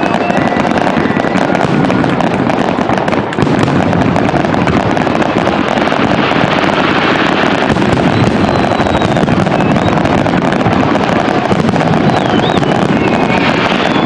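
Aerial fireworks display going off without pause: a dense run of bursts and crackling, with a few thin whistles near the end.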